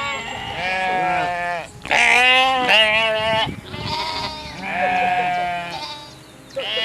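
A bird calling in a run of about six loud, wavering cries, each lasting up to about a second, with short gaps between them and a bleat-like quality.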